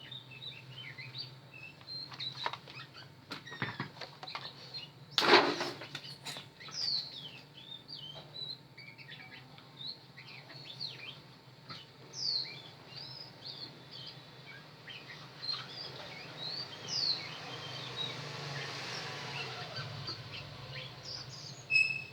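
Small birds chirping in short, repeated high calls, over a steady low hum. A sharp knock about five seconds in is the loudest sound, and a swell of rushing noise rises and fades near the end.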